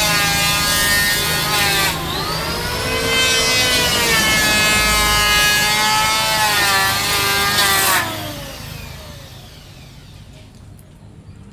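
Electric woodworking power tool cutting mahogany, its motor whine dipping in pitch under load and recovering, twice. About eight seconds in the cutting stops and the motor winds down, falling in pitch.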